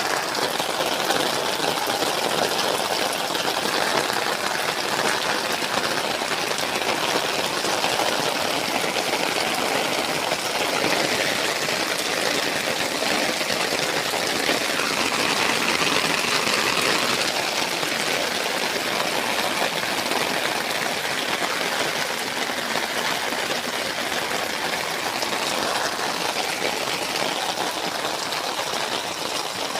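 Heavy rain falling steadily, a dense even hiss that swells a little about halfway through.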